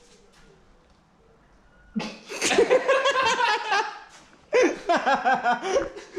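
People laughing hard in two bouts, the first breaking out about two seconds in and the second about half a second after the first dies down.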